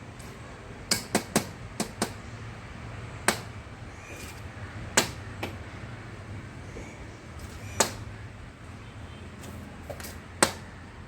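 Sharp knocks on a window, the knocking of a woodpecker pecking at the glass: a quick run of five in the first couple of seconds, then single knocks every second or two.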